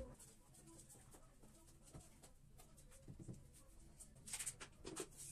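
Near silence: room tone with a few faint clicks and scrapes, a small cluster of them about four seconds in.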